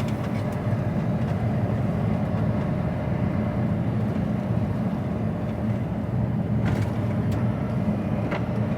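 HGV tractor unit's diesel engine running steadily, heard from inside the cab as a low even rumble, with a couple of faint ticks near the end.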